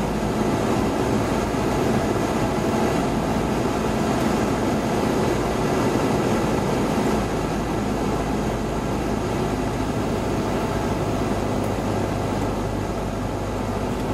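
Cessna 172's piston engine and propeller droning steadily in flight, with no change in level.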